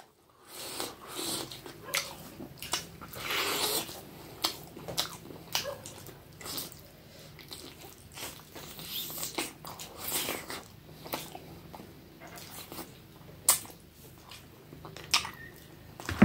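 Close-up wet chewing and lip-smacking of a person eating chicken and rice, with irregular small clicks and crunches as he bites and chews.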